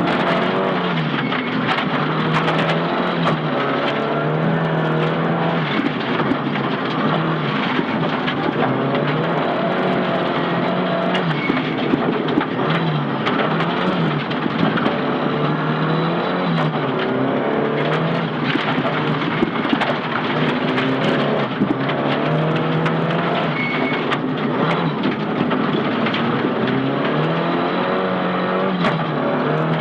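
Nissan Silvia S15 rally car's engine at stage pace, its revs climbing and dropping over and over through gear changes and lifts for corners. Frequent short knocks and rattles ring out over the steady road noise.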